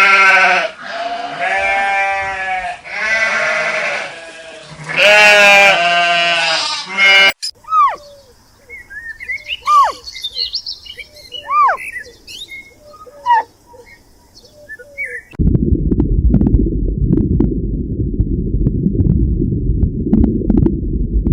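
Several loud, wavering bleats from a goat or sheep over the first seven seconds. They are followed by scattered short chirping calls, and from about fifteen seconds in by a steady low noise.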